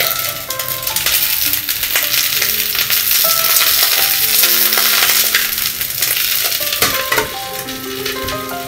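Long eggplant slices sizzling and crackling in hot olive oil in a carbon-steel wok. The sizzle swells in the middle and eases off toward the end.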